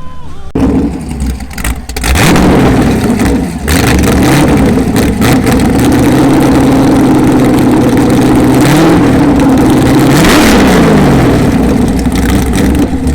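Porsche 911 race car's flat-six engine being revved while parked. It revs up about two seconds in, holds at high revs for several seconds, then drops back toward idle near the end.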